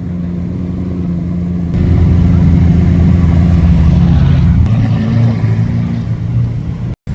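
Lamborghini Aventador's V12 engine running steadily. It gets louder about two seconds in and settles to a lower, deeper note around four and a half seconds, then cuts out abruptly for an instant near the end.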